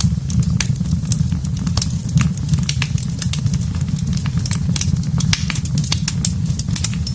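Fire in a fireplace crackling: many small sharp pops and snaps at irregular intervals over a steady low rumble.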